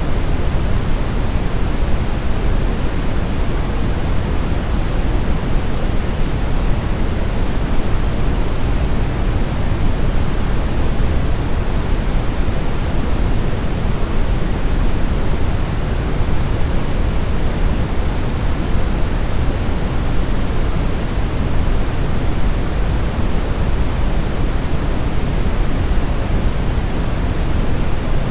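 Steady brown noise: a continuous hiss with most of its weight in the deep low end, without any change.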